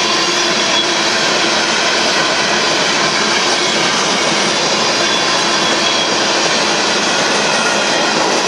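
Freight train's covered hopper cars rolling past: a loud, steady noise of steel wheels running on the rails.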